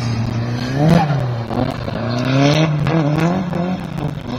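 Toyota Corolla KE70's 7A-GE four-cylinder engine revving up and down under throttle while the car drifts. The pitch climbs to a peak about a second in, then rises and falls again twice more.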